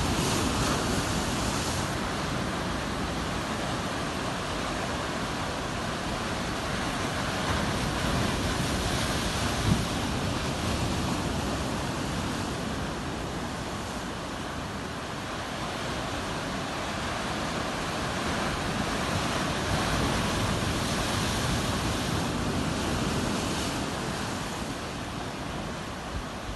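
Ocean waves breaking and washing on the shore, a continuous surf noise that swells and eases slowly over the span, louder near the start, around ten seconds in and about twenty seconds in.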